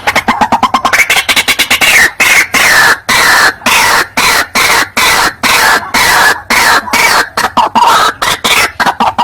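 White-breasted waterhen (ruak-ruak) calling loudly: a fast stream of harsh, croaking notes, the pitch sliding down over each phrase of about a second. It is a recorded lure call used to draw waterhens in.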